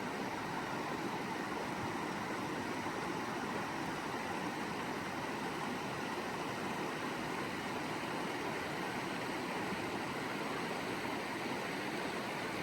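Rushing water of a creek flowing over rocks, a steady even rush.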